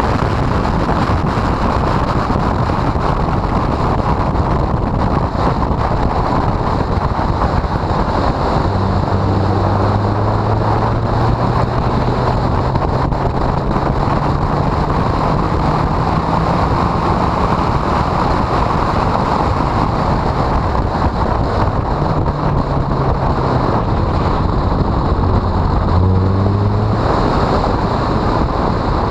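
Honda CRX four-cylinder engine pulling hard on track, heard through heavy wind noise on the microphone. Its note is buried at first, then climbs slowly, falls back twice and climbs again, as it would through gear changes.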